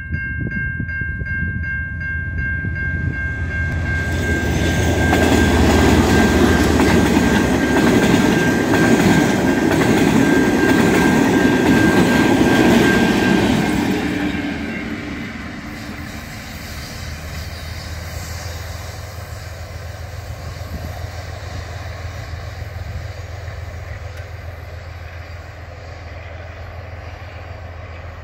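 Level-crossing warning bells ringing, with a KiwiRail DX-class diesel-electric locomotive growing louder as it approaches and passes. It is loudest for about ten seconds. The bells and the engine drop away about fourteen seconds in, leaving loaded rock wagons rolling past on the rails and fading.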